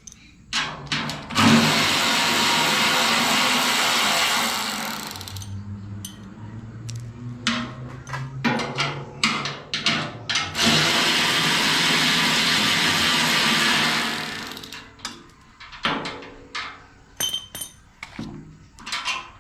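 Handheld power drill/driver running in two steady bursts of about three and a half seconds each, spinning out bolts on a wood chipper's housing. Between and after the bursts come short knocks and clinks of metal parts being handled.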